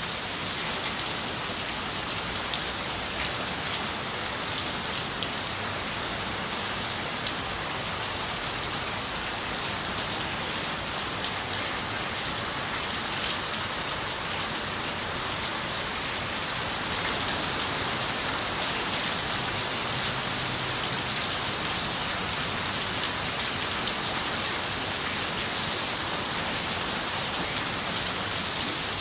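Steady rain falling on a window, an even hiss with scattered drops ticking on the glass. It grows a little louder a bit past halfway.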